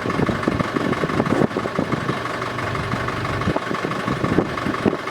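A sailboat's auxiliary engine running steadily at low revs, a continuous hum with a rough, fluttering low end.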